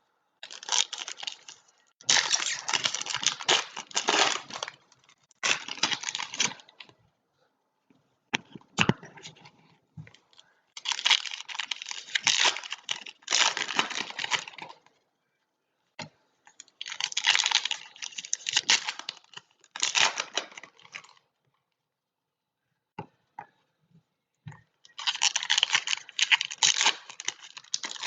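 Foil trading-card pack wrappers being torn open and crumpled, in repeated crinkling bursts of a few seconds each with short pauses between.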